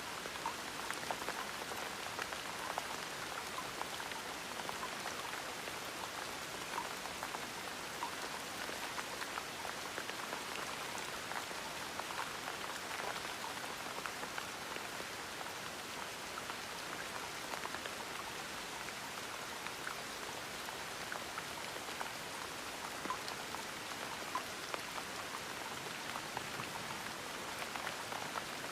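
Steady gentle rain falling on a surface, a soft even patter with many small drop ticks scattered through it.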